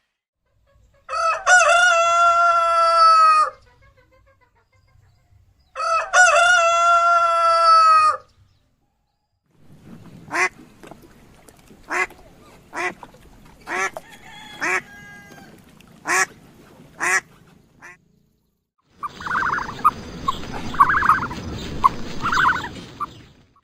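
Farmyard poultry calling: two long drawn-out calls of about two seconds each, then a string of short sharp calls about a second apart, then a burst of overlapping calls near the end.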